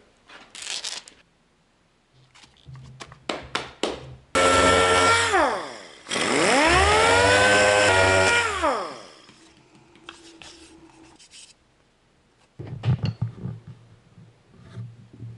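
Small electric power sander run twice with 120-grit paper to frost plexiglass, the motor pitch falling away in the first run and winding up and then down in the second. Softer clicks and handling noise come before and after.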